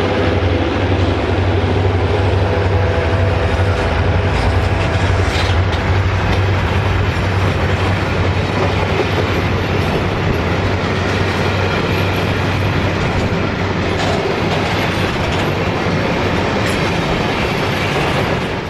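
Freight train of container flat wagons rolling past close by: a loud, steady rumble and rattle of steel wheels on the rails, with occasional sharper clacks.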